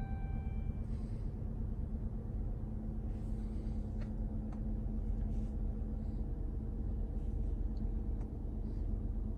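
A Dodge Durango R/T's 5.7-litre Hemi V8 idling steadily, heard from inside the cabin. A short electronic chime sounds in the first second, and a few light clicks come later.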